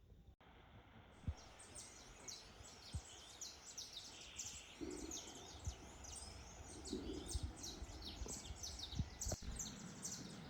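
Faint birdsong: many short, high chirps in quick succession starting about a second in, with a few soft low knocks underneath.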